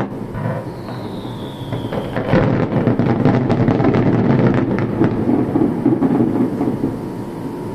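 Aerial fireworks: a thin whistle falling in pitch, then from about two seconds in a dense volley of bangs and crackles over a rumble that fades toward the end.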